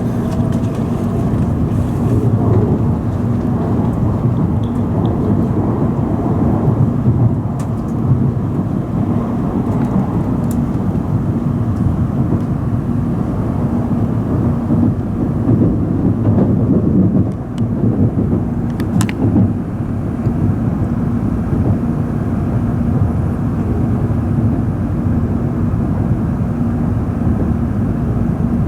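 N700 series 2000 Shinkansen running, heard inside the passenger cabin: a steady low rumble with a faint constant hum. A few brief sharp clicks come through.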